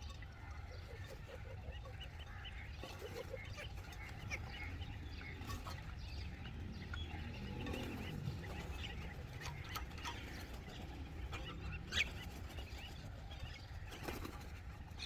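Birds calling in many short, overlapping notes over a steady low rumble, with one sharp knock about twelve seconds in.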